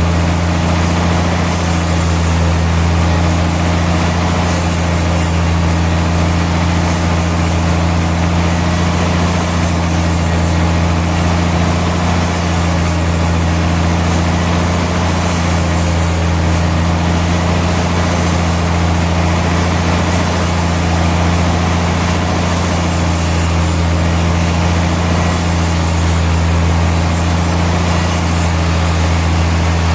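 Sawmill machinery running steadily: a constant low hum under an even mechanical wash, unchanging throughout.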